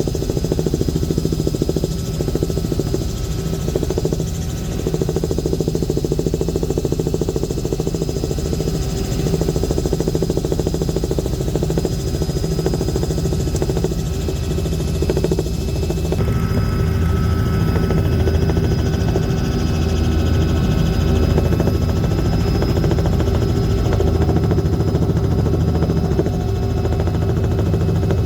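Steady drone of an aircraft's engine in flight, with a shift in its tone a little over halfway through.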